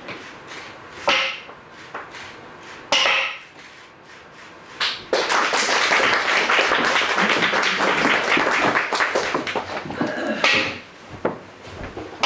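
Kabuki hyoshigi, a pair of wooden clappers, struck in single sharp ringing cracks about two seconds apart. Partway through, about five seconds of audience applause, with one more clapper crack near the end.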